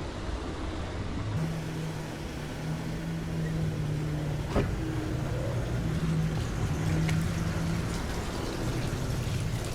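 Car in motion, heard from inside the cabin: steady road and engine noise with a low hum, and a single sharp click about halfway through.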